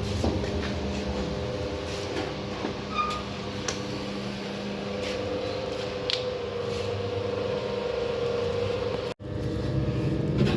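Abon/serundeng cooking and stirring machine running: a steady motor hum with a few light clicks and knocks from the stirring.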